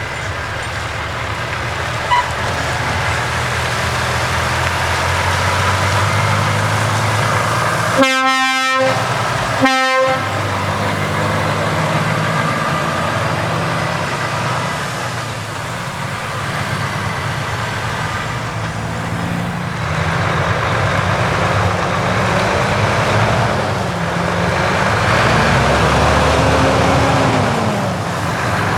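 Heavy trucks' diesel engines running as they drive past. A truck air horn blasts twice about a third of the way in, a longer blast followed by a short one. Near the end one engine's pitch rises and falls.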